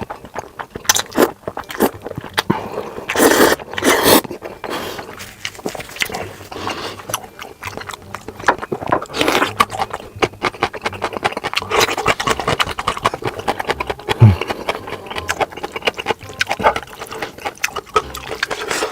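Close-miked eating sounds: noodles slurped and chewed in quick, irregular strokes, with louder slurps about three and four seconds in.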